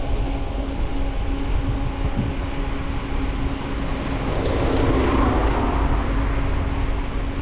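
Riding noise from a bicycle-mounted camera: wind rumbling on the microphone and tyres rolling, under a steady hum. About halfway through, a louder rush swells for a second or two and fades.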